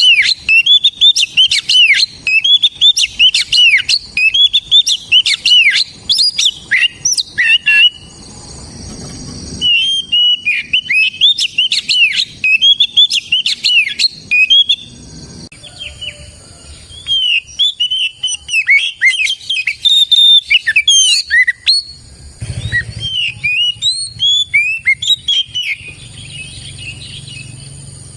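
Oriental magpie-robin (kacer) singing fast runs of whistled, chirping notes that sweep up and down in pitch. It sings in long phrases, breaking off twice.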